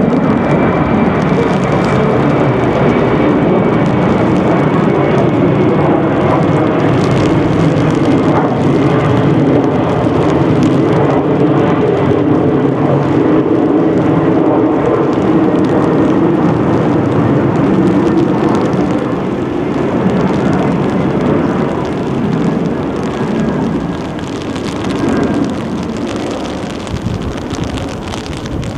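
A jet aircraft passing overhead: a loud, steady engine noise with a faint whine that slowly falls in pitch, easing off over the last third.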